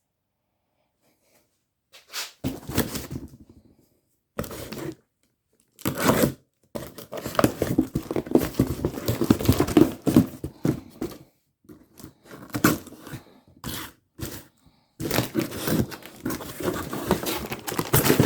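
Crinkling and rustling of packaging being handled in irregular bursts with short pauses, starting about two seconds in.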